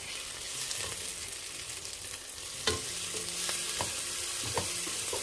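Chopped onions and ginger paste sizzling in oil in a non-stick pot while a wooden spatula stirs them, with a few light taps of the spatula against the pan in the second half.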